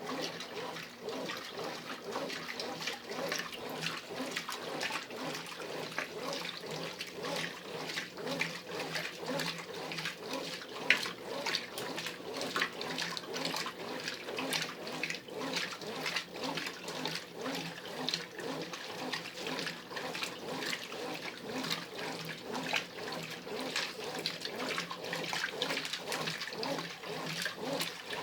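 Brastemp Ative 11 kg top-loading washing machine agitating its load in the Heavy wash: water and clothes sloshing and splashing in the drum, steady throughout.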